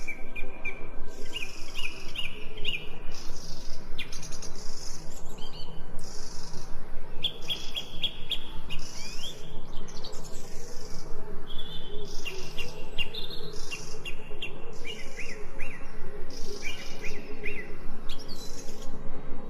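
Several birds chirping and singing, with quick runs of short repeated notes and trills that come and go.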